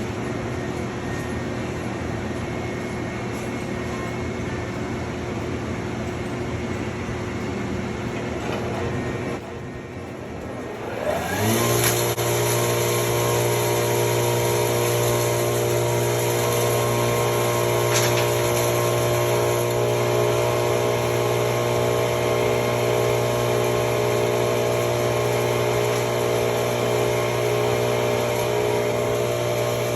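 DIY hammer mill for crushing rock ore starting up: after a steady machine hum and a short lull, its drive spins up with a rising whine about eleven seconds in, then runs at a steady pitch.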